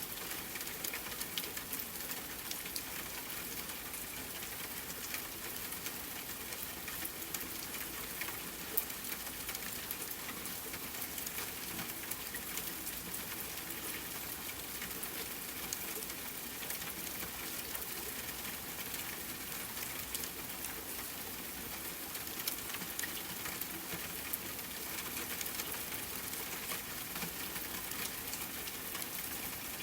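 Steady rainfall hiss mixed with a crackling wood fire, small pops and snaps scattered throughout.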